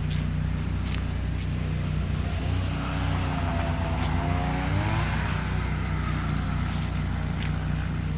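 A steady low engine hum, with a second engine sound rising in pitch and then falling away in the middle, and a few faint clicks.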